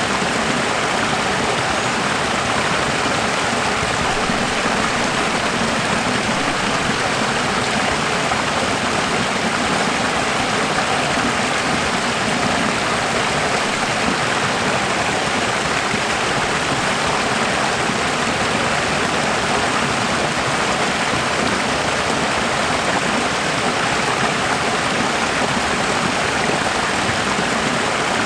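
Running water flowing steadily: an even, unbroken rushing.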